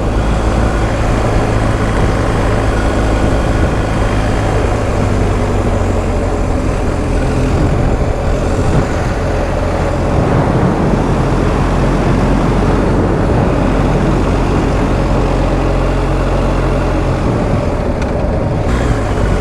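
BMW R1250 GS Adventure's boxer-twin engine running steadily as the motorcycle climbs a road, mixed with dense wind and road noise. The engine note shifts slightly near the end.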